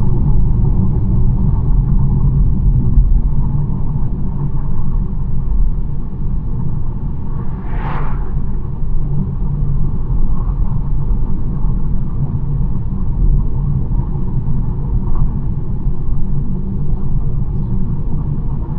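BMW 1 Series driving along at a steady pace: a continuous low rumble of road and engine noise. About eight seconds in there is a brief rushing sound.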